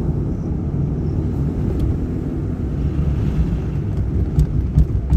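Vehicle moving along a road: a steady low rumble of engine and road noise, with a few short knocks near the end.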